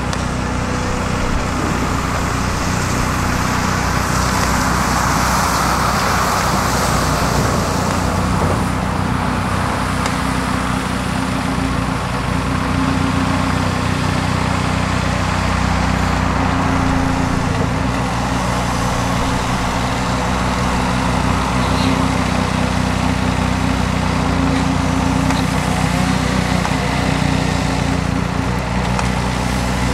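Heavy diesel engine of construction machinery running steadily under a low, even drone, with a rushing noise that swells and fades a few seconds in.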